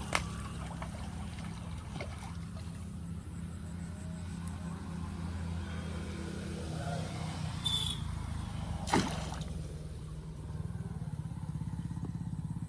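A motor engine running steadily with a low hum, with a few sharp knocks, the loudest about 9 seconds in.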